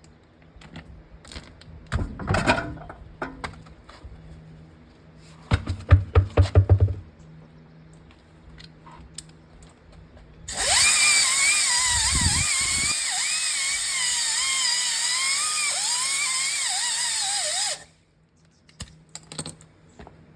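Power tool running in short bursts, a quick rattle of pulses about six seconds in, then a steady run of about seven seconds with a wavering whine that cuts off suddenly.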